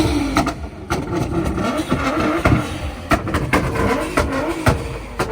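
A car engine and exhaust revving up and down again and again, with many sharp cracks through it.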